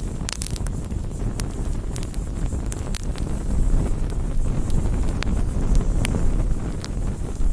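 Wood campfire burning: a steady low rumble of flames with irregular sharp crackles and pops from the burning wood, a quick cluster of them just after the start.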